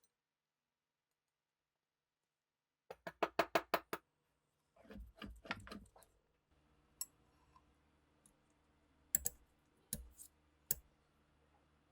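Small metal pistol parts being handled and worked: a quick run of about seven sharp clicks, a short clattering rattle, then several single crisp clicks.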